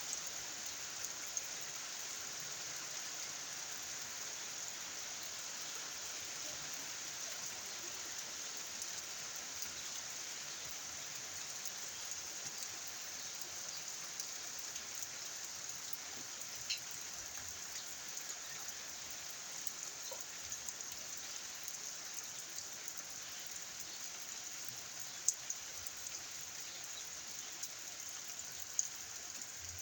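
Steady rain falling, an even hiss with a few sharper single drops hitting now and then.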